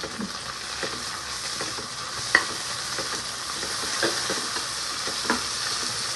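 Onions, green chillies and mint leaves sizzling in hot oil while a spatula stirs them, with scattered scrapes and clinks of the spatula against the pan, the sharpest about two seconds in.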